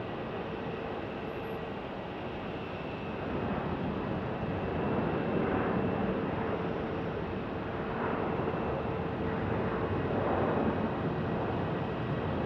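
Jet engines of a WestJet Boeing 737-700 airliner, a steady noise with a faint hum, growing louder about three to four seconds in and staying loud as the aircraft passes.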